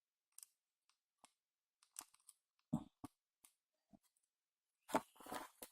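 Faint, scattered small clicks and taps of hand tools working on a mobile phone's circuit board, with a few firmer knocks about three seconds in and near the end.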